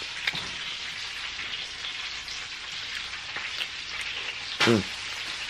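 Hot oil sizzling steadily with scattered small pops as food fries in a pan. A short pitched vocal sound from a person comes near the end.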